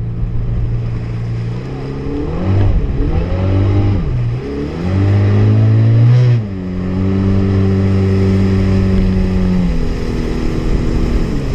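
Honda jet ski engine running under changing throttle. Its pitch climbs and drops twice, then holds steady for a few seconds, eases off and begins to rise again near the end.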